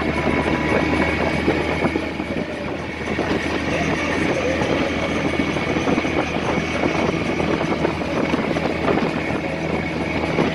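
Speedboat engine running steadily, a low hum with a thin high whine over it.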